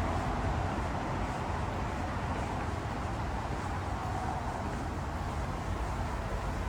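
A steady, even rushing background noise with a low rumble underneath.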